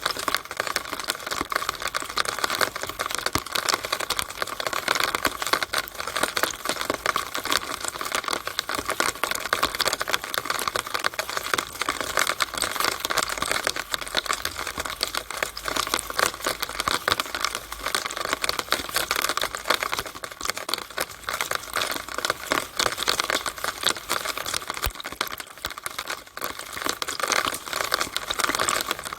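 Rainwater running out of a downspout in the rain: a steady, dense patter of drops and splashing.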